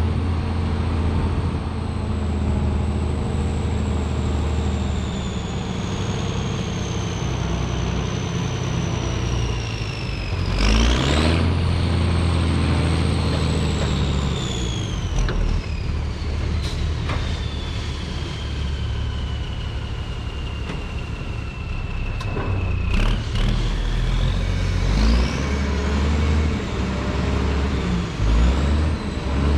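Diesel engine of a 6x6 dump truck running under load while hauling dirt. A high whine falls slowly in pitch, jumps back up about a third of the way in with a short burst of noise, falls again, then climbs in steps near the end, following the engine's speed.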